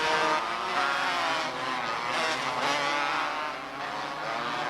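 Engines of several small race cars running together on the track, their pitches rising and falling as they go around.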